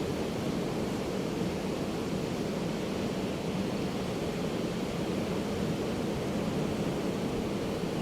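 Ocean surf washing onto a beach: a steady, even rush of waves with no single crash or gull call standing out.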